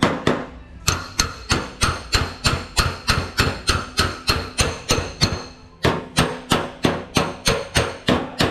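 Hammer blows on car-body sheet steel, about four a second in a steady rhythm with a faint metallic ring, broken by two short pauses.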